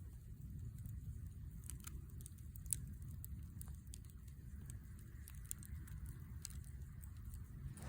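Wood fire crackling, with scattered sharp pops and snaps and one louder pop a little over two and a half seconds in, over a steady low rumble.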